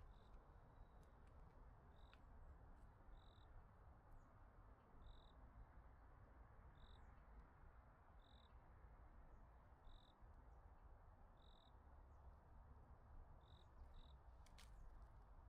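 Faint, short high chirps from a small calling creature, repeating about every second and a half over a low steady rumble, with a few sharp clicks near the end.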